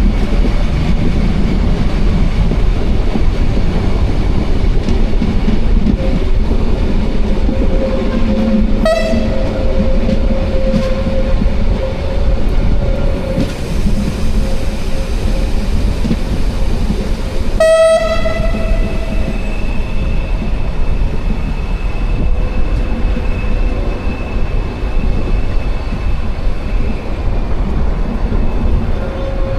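Brohltalbahn narrow-gauge train running with a steady low rumble, sounding two short horn blasts, about 9 s and 18 s in.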